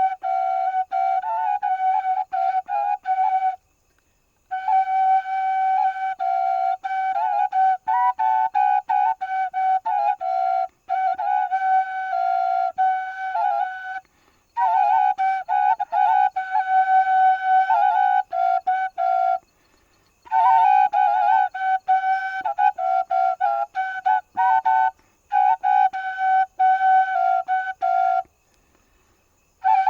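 Solo flute playing a melody of quick notes and trills that hover around one high pitch. It plays in several phrases separated by brief pauses of about a second.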